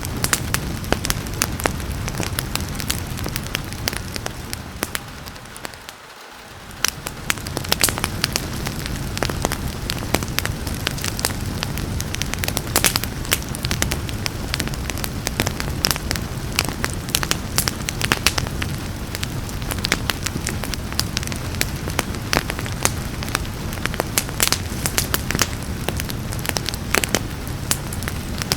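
Wood fire crackling with frequent sharp pops over a steady hiss of rain. About six seconds in the whole sound dips briefly and swells back.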